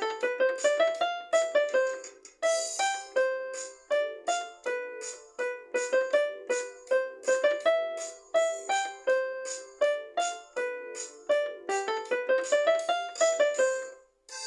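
Instrumental music performed live: a melody of short struck notes, several a second, on a keyboard-like pitched instrument, with quick rising runs near the start and again near the end. A brief high shimmer about two and a half seconds in, and the music breaks off just before the end.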